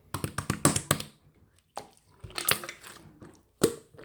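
Crisp crackling and crunching: a dense run of sharp cracks in the first second, then a few separate bursts.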